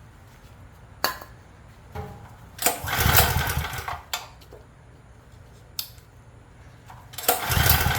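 Craftsman generator's small engine being cranked over by its recoil pull cord, twice, without firing or catching: a no-start that the owner puts down to a weak ignition coil.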